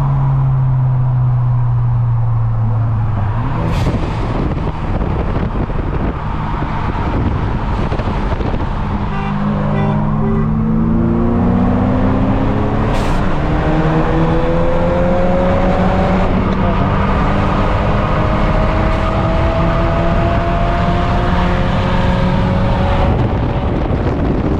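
Car engine running: a steady low drone at first, then its pitch climbs slowly and repeatedly through the middle and later part, as the car accelerates.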